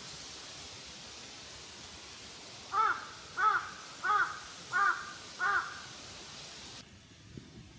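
A crow cawing five times in a row, evenly spaced, over a steady background hiss that cuts off abruptly near the end.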